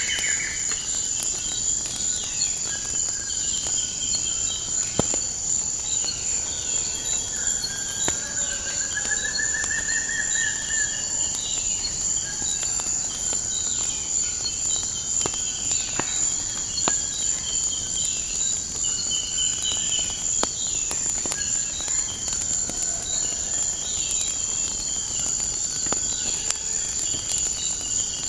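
Nature ambience with a steady, high-pitched chorus of crickets and insects. Birds chirp again and again, one giving a longer trill about nine seconds in, while scattered sharp pops of a crackling wood fire come through.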